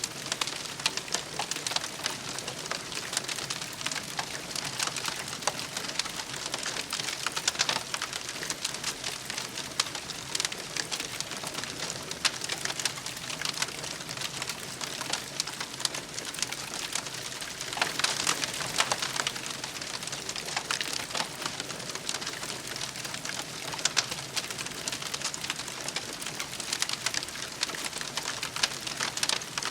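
Wood campfire crackling steadily, a dense stream of small sharp snaps and pops, with a louder flurry of pops about two-thirds of the way through.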